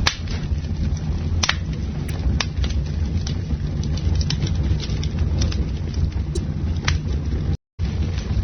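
Bonfire burning with a steady low roar and irregular sharp crackles and pops of burning wood, with a short dropout to silence near the end.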